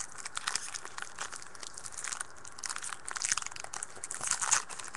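Crinkling and tearing of a trading-card pack's foil wrapper as it is opened by hand, an irregular run of crackles throughout.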